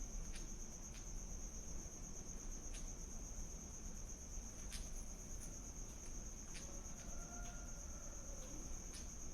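Steady high-pitched insect trill, with a few faint soft clicks.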